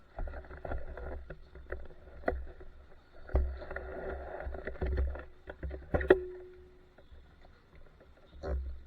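Royal Enfield Desert Storm's 500 cc single-cylinder engine blipped in bursts through a straight-through torpedo/megaphone silencer, with sharp exhaust pops and cracks. The loudest bang comes about six seconds in, with a short ringing after it.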